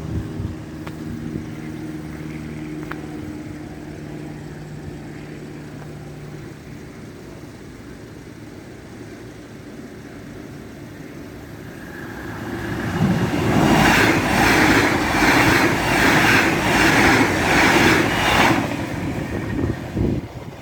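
Train passing over a level crossing: a steady engine hum fades in the first few seconds, then about twelve seconds in a loud rushing noise builds with an even clatter of wheels, about two beats a second, for some six seconds before it dies away.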